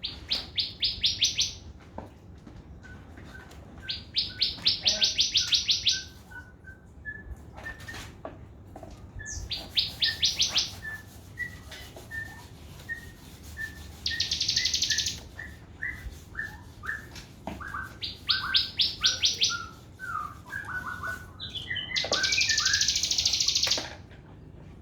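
Crimson sunbird (sogon) singing its fast 'trotol' song: rapid rattling trills of repeated high notes lasting about a second and a half each, alternating with thin whistled notes, with a longer dense buzzy trill near the middle and another near the end.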